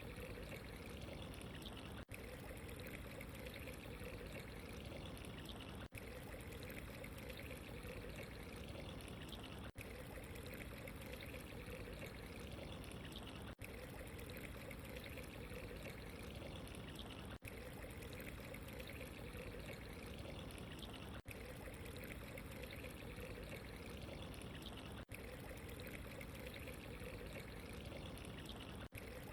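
Steady, faint sound of running water pouring and trickling. It is a short recording on a loop, with a brief dip in level about every four seconds.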